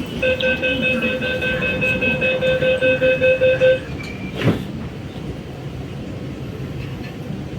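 MTR Q-train door-closing warning: a rapid series of electronic beeps, about four a second, for about three and a half seconds. A single knock follows about a second later as the doors shut, then the steady noise of the train.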